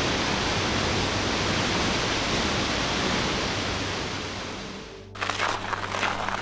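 Curly Creek Falls rushing with a steady, even roar of falling water that fades out about five seconds in. It then gives way abruptly to irregular crackling and rustling over a low hum.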